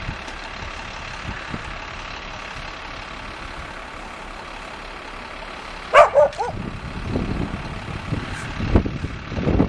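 A vehicle engine running steadily, with a dog barking twice about six seconds in.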